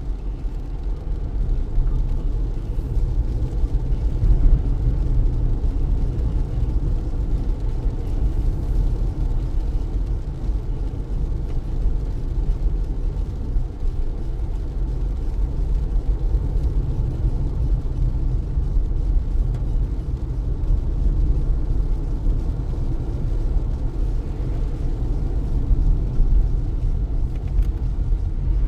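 Car driving on a wet road: a steady low rumble of tyres and road noise.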